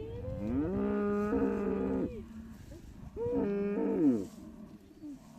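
A cow mooing twice: a long moo that rises and then holds, followed about a second later by a shorter one.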